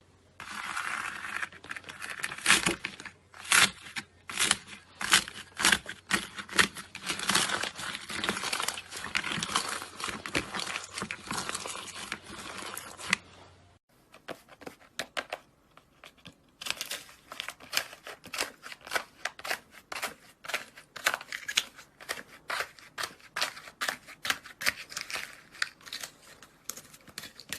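Slime being squeezed and worked by hand, giving rapid sticky crackles and pops. After a short break about 14 seconds in, the crackling comes back finer and denser.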